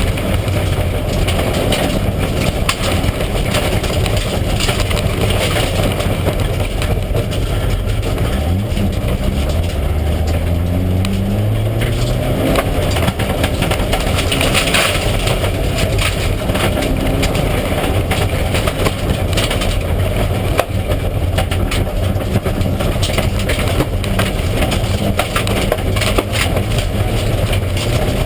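Mitsubishi Lancer Evolution IX rally car's turbocharged four-cylinder engine running at speed under loud, steady tyre and road noise. About a third of the way in, the engine's pitch climbs for a few seconds as it revs up.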